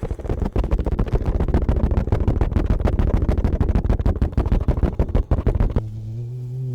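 A microphone brushed fast, making dense, rapid scratchy strokes, many a second. Near the end the brushing cuts off abruptly and a steady low droning tone takes over.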